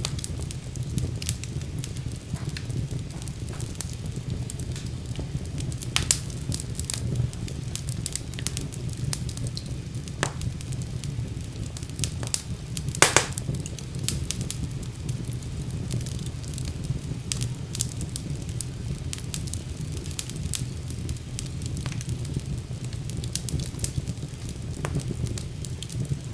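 Wood fire burning in a fireplace: a steady low rumble of flames with scattered crackles and pops, the loudest pops about six and thirteen seconds in.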